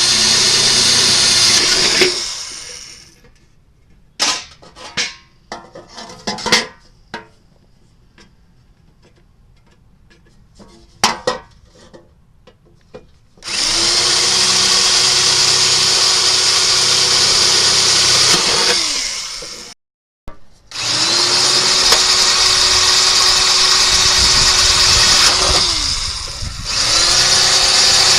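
Handheld electric power tool running in four bursts. Each time the motor spins up, runs steadily for a few seconds and winds down. Between the bursts come short clicks and knocks.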